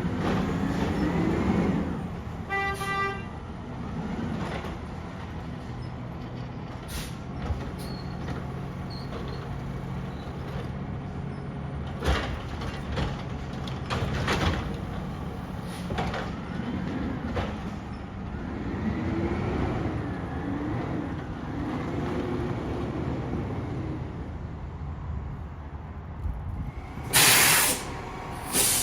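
Garbage truck engine running steadily, revving up and down, with a brief beep about three seconds in and a few clanks. A loud hiss of air brakes comes near the end.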